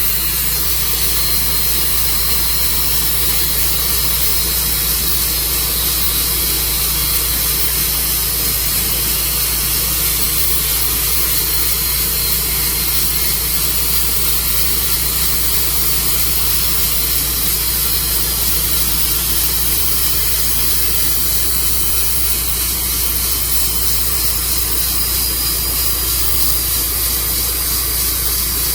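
Sawmill engine running steadily at an even pitch, with a strong hiss over it.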